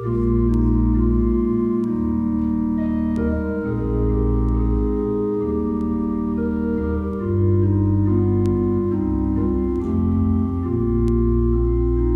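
Organ playing slow, sustained chords over deep held bass notes, the chords changing every second or two.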